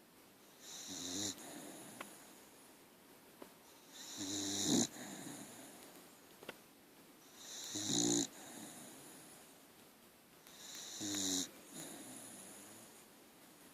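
Dog snoring in its sleep: four snores about three seconds apart, each swelling for under a second and then stopping short.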